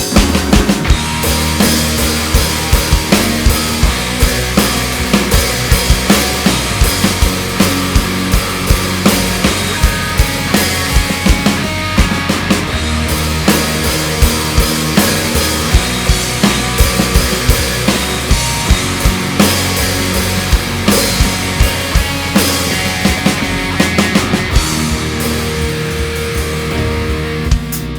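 Live rock band playing an instrumental passage: a drum kit keeps a steady, driving beat under distorted electric guitars and bass. Near the end the drums stop and the guitar carries on.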